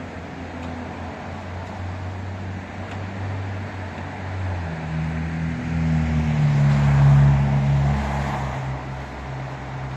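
Large truck's engine running with a low hum, growing louder from about halfway through and loudest around seven seconds in, then easing off, over steady street traffic noise.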